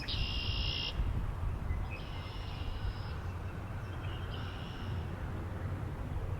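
Wind rumbling low on the microphone, with three short, buzzy, high-pitched bird calls: one at the start, one about two seconds in and one about four and a half seconds in.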